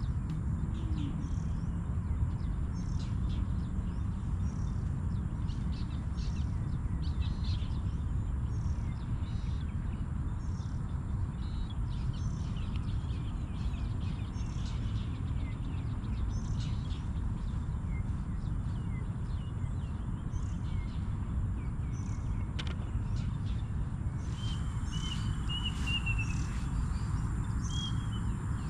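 Birds chirping with short scattered calls over a steady low rumble. A run of quick repeated chirps comes near the end.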